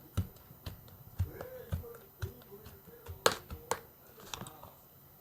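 Light pink fluffy clay slime squished and poked by hand, making irregular sticky clicks and pops, with two sharper pops a little past three seconds in.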